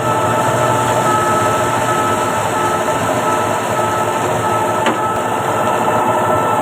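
KCP 56 concrete pump truck running: a steady, loud machine drone with several steady whining tones over it, and a single short click about five seconds in.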